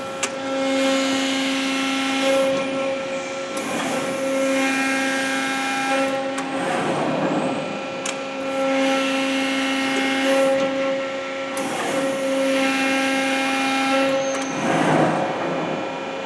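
Cincinnati Autoform 90-ton CNC hydraulic press brake running under power. A steady machine hum has a lower whine that drops in and out as the back gauge steps through its programmed moves. Louder rushing spells rise and fall several times, strongest about seven seconds in and near the end.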